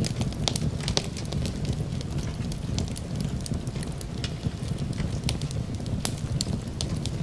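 Wood fire crackling and popping with irregular sharp snaps over a steady low rumble; rain may be mixed in beneath it.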